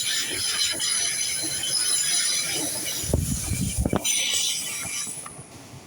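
Class 800 train running into the station with a high-pitched squeal of wheels and brakes over its running noise. Heavy low thuds come about three to four seconds in, and the sound fades near the end.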